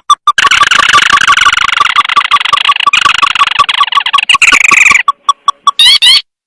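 Crake lure-call recording: a fast, even series of short notes, about six a second. For most of it a dense, harsh chattering trill sits over the notes. The chatter stops about five seconds in, and the clip ends with a couple of quick rising whistles.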